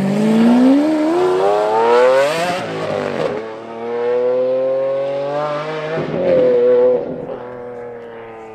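Lamborghini Aventador's V12 accelerating hard away, the revs climbing through one gear, dropping at an upshift about three seconds in, and climbing again through the next. Near the end the engine note drops and fades as the car recedes down the road.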